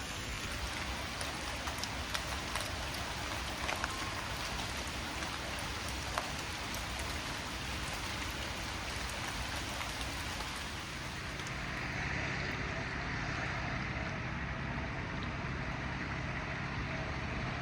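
Steady summer rain falling, with scattered raindrop ticks. About eleven seconds in, the sound changes to a steadier hiss with a low hum underneath.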